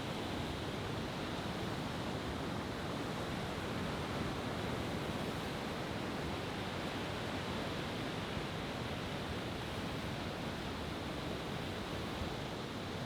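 Steady, even rushing background noise with no firework bursts or bangs: a lull between shells.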